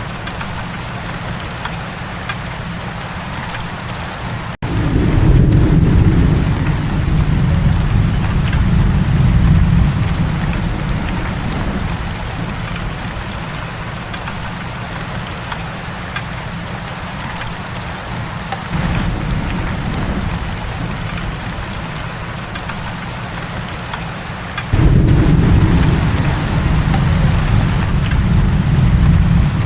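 Steady heavy rain, with low rolling rumbles of thunder that come in abruptly about five seconds in and again twice later.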